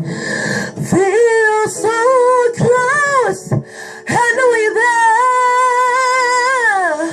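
A woman's voice singing a wordless vocal run of gliding, bending notes, then holding one long note that slides down near the end.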